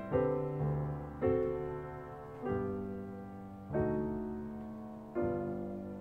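Slow, gentle piano music: soft chords struck about five times, each ringing and fading before the next.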